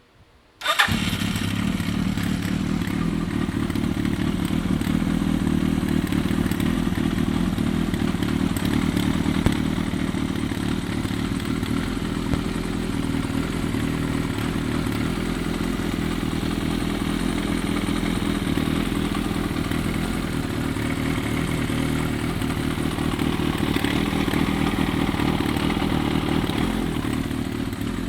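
A freshly overhauled Kawasaki Z1000J's air-cooled inline-four engine starting up: it catches abruptly less than a second in and then runs steadily.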